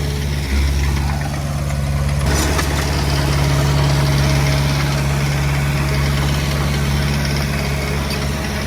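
Heavy diesel earthmoving engine running steadily, with a brief burst of noise about two seconds in.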